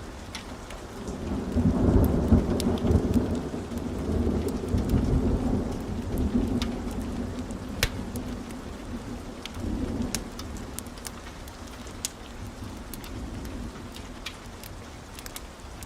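Thunder rumbling over steady heavy rain: a deep rumble swells about a second and a half in, rolls on with further swells, and fades away over the second half. Scattered sharp ticks sound through the rain.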